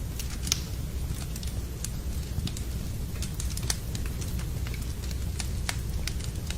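Wood fire crackling in a fireplace, with irregular sharp pops over a steady low rumble, blended with steady rain.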